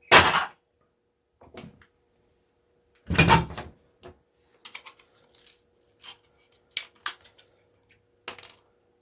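Metal motor parts and tools clanking against a hard work surface: one loud clank right at the start, another about three seconds in, then a series of lighter clinks and taps.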